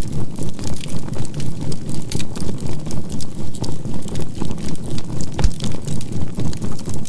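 Burning charcoal fire crackling with scattered small pops, one sharper pop about five and a half seconds in, over a low synthesized tone that pulses evenly about four times a second.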